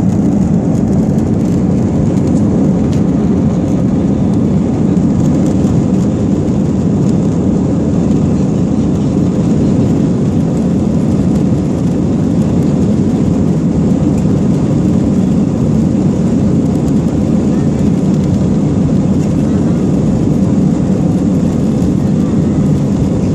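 Steady, loud roar of an Airbus A320's jet engines and airflow heard from inside the passenger cabin, holding an even level throughout.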